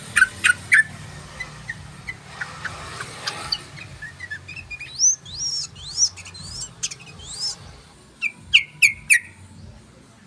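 Yellow-vented bulbul singing: clusters of sharp, quick chirps near the start and again near the end, with rising-and-falling whistled phrases in between.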